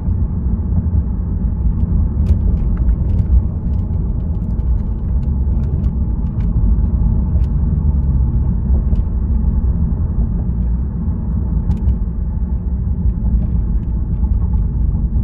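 Steady low drone of a 2015 Lexus RC350 F Sport's V6 exhaust through a Remark axle-back muffler, heard from inside the cabin with the windows up while driving in eco mode, mixed with road noise. A few faint ticks sound now and then.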